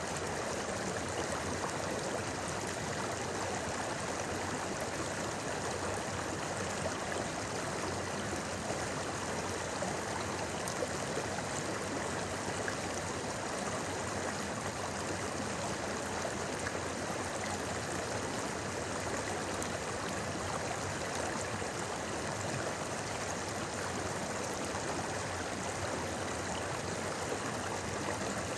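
A shallow river flowing and babbling over stones, a steady rushing murmur of water with no distinct events.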